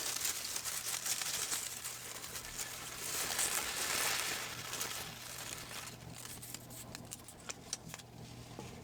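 Folded paper slips crinkling and rustling as a hand rummages through them in a hat: dense crackling for about five seconds, then scattered crackles.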